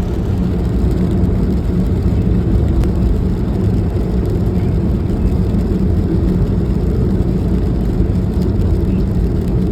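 A vehicle engine running steadily: a loud, even low rumble with a hum underneath.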